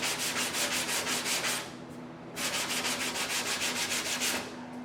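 80-grit sandpaper on a sanding block rasping across body filler on a car door in quick, even back-and-forth strokes. It stops for a moment about a second and a half in, then starts again for another two seconds.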